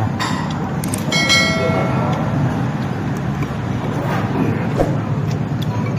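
Steady low rumble of road traffic, with a metallic clink about a second in that rings on for about a second, and scattered light clicks.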